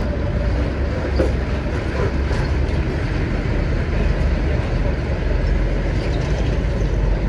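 Steady low rumble of a heavy vehicle running, with a few faint clicks.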